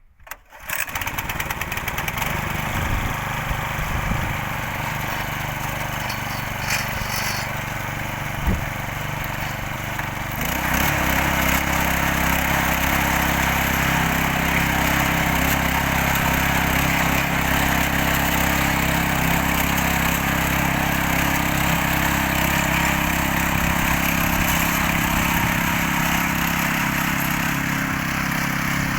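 Tractor engine running steadily, then louder and harder-working from about ten seconds in.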